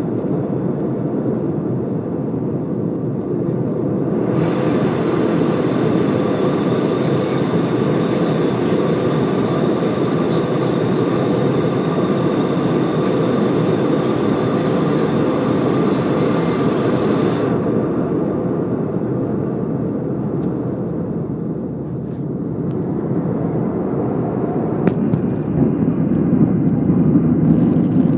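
Steady roar of an Airbus A320 cruising at altitude, heard inside the passenger cabin as engine and airflow noise. A brighter hiss joins in from about four seconds in and drops away at about seventeen seconds.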